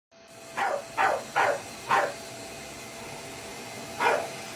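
A dog barking: four quick barks about half a second apart, then one more bark a couple of seconds later.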